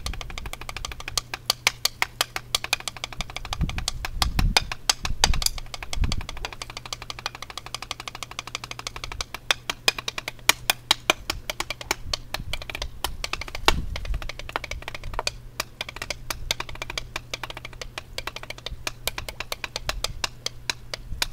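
Drumsticks playing rudiments on a drum practice pad: fast, even rows of sharp stick taps with louder accented strokes here and there.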